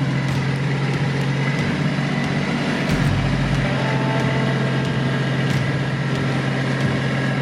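Kubota tractor's engine running at a steady speed, a constant low hum.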